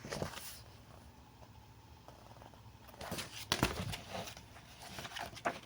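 Quiet room with a few soft rustles and taps, including one duller thump, about halfway through and near the end: the handling of a picture book's paper pages as they are turned.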